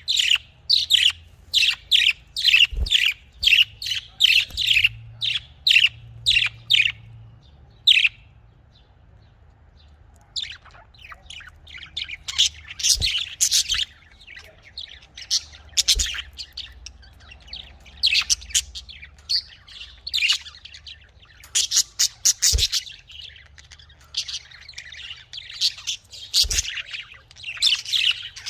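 Budgerigars chirping and chattering in quick, high, short calls, steady at first, with a brief pause about a third of the way in, then busier, overlapping chatter. A few faint knocks come through now and then.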